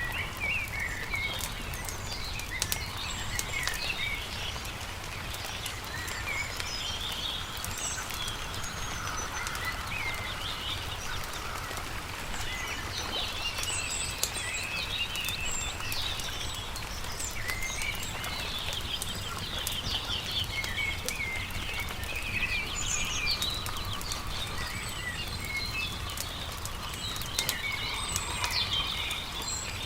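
Several songbirds chirping and trilling over the crackle and pops of a campfire, with a steady low rumble underneath.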